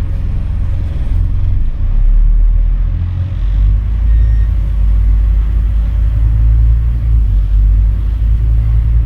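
Scania N230UD double-decker bus engine running under way, a loud low rumble; its low drone shifts in pitch about three seconds in, as with a gear change or change of load.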